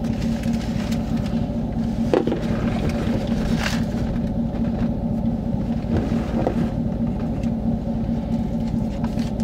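Steady low rumble and hum of a vehicle idling, heard from inside the cab, with a few faint clicks and rustles.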